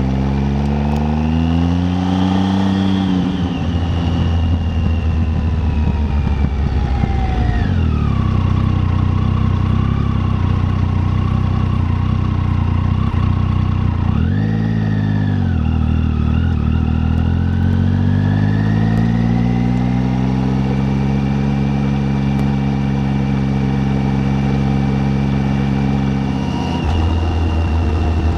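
Triumph Tiger 800's three-cylinder engine running on the move. It pulls up through the revs, then eases off, gives a quick rise and fall in revs about halfway, climbs again and holds steady, then backs off near the end.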